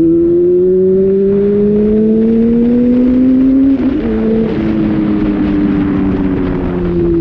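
Honda Hornet motorcycle engine under way, its pitch rising steadily as it accelerates, with a brief break about four seconds in at a gear change, after which the engine note eases slowly down.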